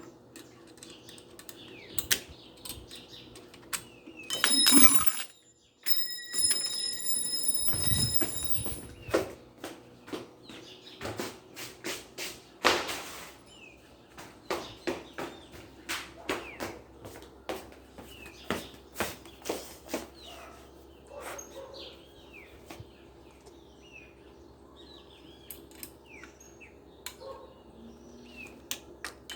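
Irregular clicks and knocks of metal parts being handled, with a short steady whine a few seconds in and birds chirping in the background.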